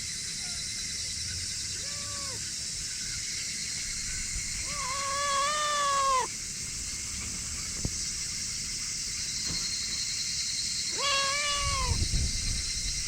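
A cat meowing three times: a short meow, then a long drawn-out one, then another after a pause.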